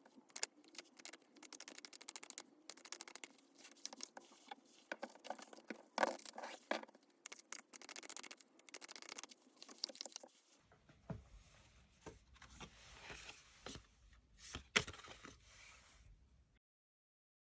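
Tarot cards being shuffled and handled on a table: a quick, irregular run of card clicks, slides and scrapes that cuts off suddenly near the end.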